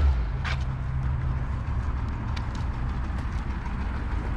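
An old Fiat's engine running in the background, a steady low hum, with a few light clicks over it.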